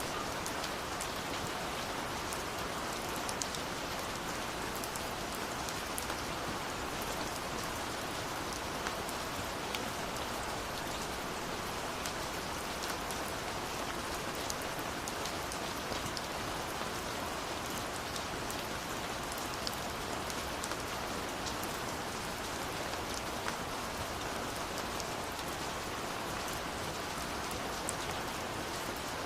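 Steady rushing water of a waterfall, even and unbroken, with many faint scattered crackles and pops of a wood fire.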